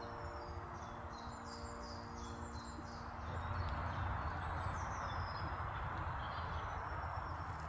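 Small birds singing, with repeated quick high chirps and trills, over a steady rushing background noise that grows louder about three seconds in.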